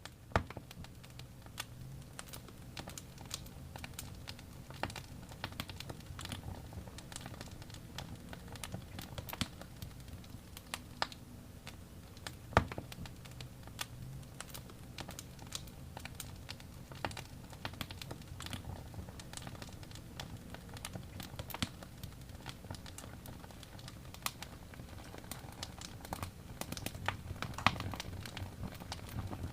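Wood fire crackling in a fireplace: a dense, irregular run of small sharp pops and snaps, with a few louder pops about halfway through and near the end, over a low steady rumble.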